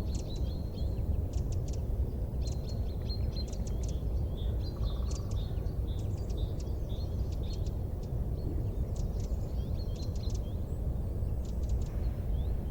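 Wood fire burning: a steady low rumble with frequent sharp, high crackles, and short high chirping sounds running through it.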